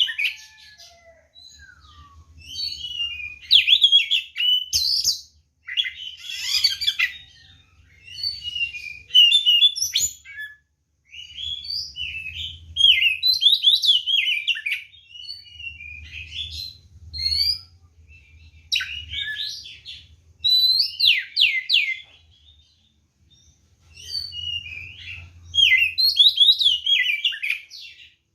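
Oriental magpie-robin (kacer) singing in full, loud voice: varied whistles and quick trills delivered in bursts of one to two seconds with short pauses between them, the open, aggressive song a kacer gives in fighting mood. A faint low hum runs underneath.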